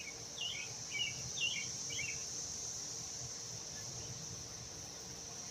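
Steady high-pitched insect drone, like crickets, over a low rumble. A bird chirps about five times in quick succession in the first two seconds.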